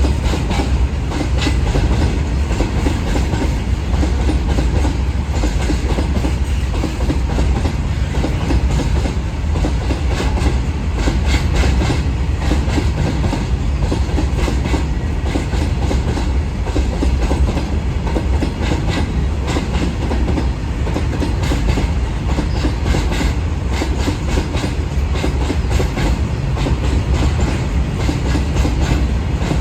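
Long goods train's wagons rolling on the track: a steady rumble with a continuous clatter of wheels over the rail joints.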